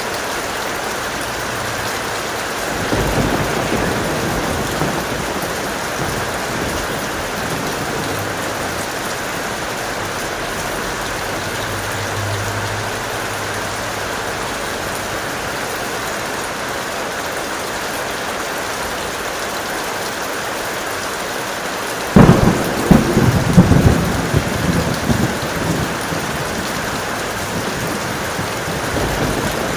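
Steady heavy rain, with a faint low roll of thunder a few seconds in. About three-quarters through, a sudden loud thunderclap cracks and rolls off over several seconds.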